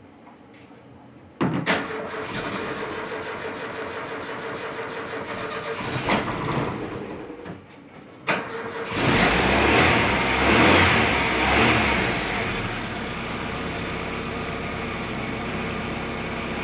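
Freshly overhauled car engine being started: cranked on the starter for about six seconds, a pause, then cranked again, catching about nine seconds in, revving up and settling into a steady idle. A hard start, which the owner puts down to the fuel rail having no pressure yet in the freshly assembled engine.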